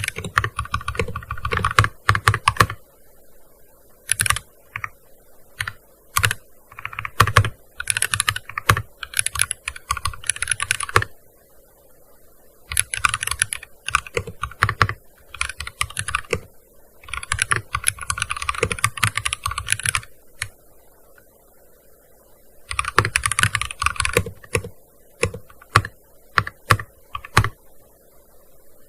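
Typing on a gaming keyboard: quick runs of keystrokes in bursts of a second to a few seconds, broken by short pauses, with a few isolated key presses near the end.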